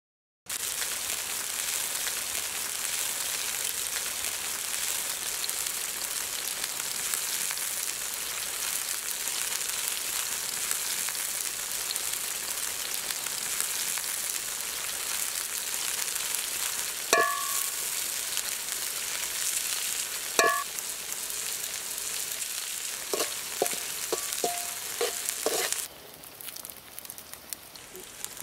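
Food frying in hot oil in a wok: shallots and chillies sizzling with a dense, steady hiss. Two ringing metal clinks about two-thirds of the way in are followed by a few lighter ticks, and the sizzle then drops off sharply near the end.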